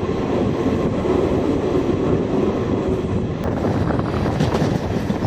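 Train running along the track with a steady rumbling noise.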